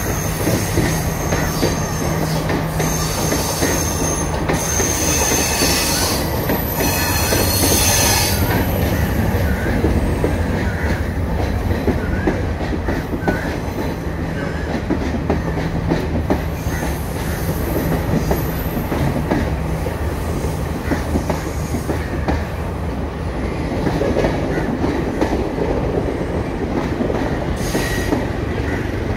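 Diesel passenger train passing on curved track: steady engine hum and the rumble of wheels on rail, with high-pitched wheel squeal on the curve that is strongest in the first several seconds.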